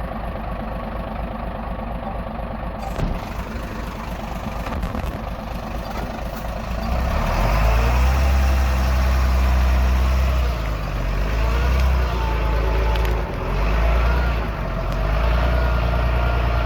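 Diesel engine of heavy earthmoving machinery running, growing much louder about seven seconds in and then swelling and easing several times.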